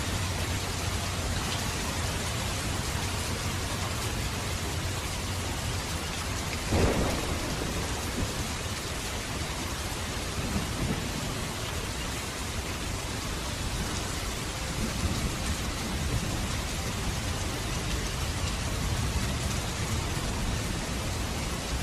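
Steady heavy rain falling, with a low rumble of thunder. One short, louder thump about seven seconds in.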